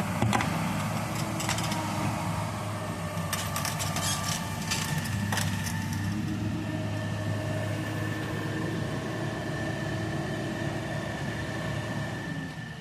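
Excavator's diesel engine running steadily under hydraulic load, with a thin steady whine and a few sharp clatters in the first half as the bucket works the canal bank. The engine note eases off just before the end.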